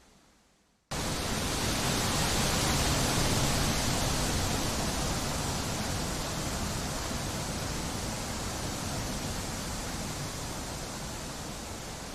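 Steady wind noise, an even hiss across all pitches, that cuts in suddenly about a second in after a fading quieter stretch, then eases very slowly.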